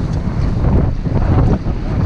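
Wind buffeting the microphone aboard a racing sailboat under way: a loud, gusting low rumble that rises and falls.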